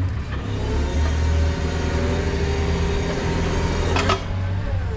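A vehicle engine running steadily, with a low hum and a whine over it, and a sharp knock about four seconds in.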